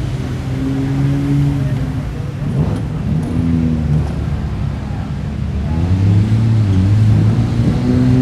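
Car engines running as cars pull out and drive past, the engine note rising and falling as they accelerate.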